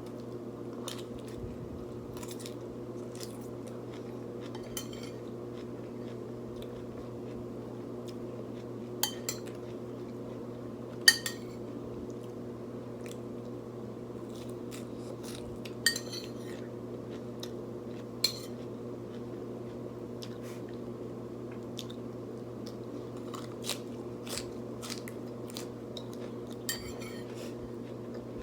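Close-up eating sounds: a fork clinking against a dish now and then, with crunching and chewing bites of food. Several sharp clinks stand out, the loudest about eleven seconds in, over a steady low hum.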